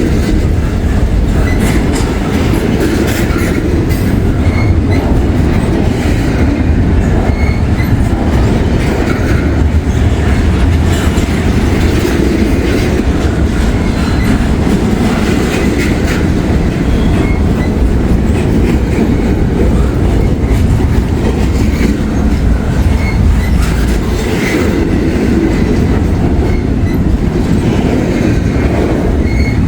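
Freight train cars rolling past close by: a steady loud rumble of wheels on rail with a rapid clickety-clack of wheels over the rail joints.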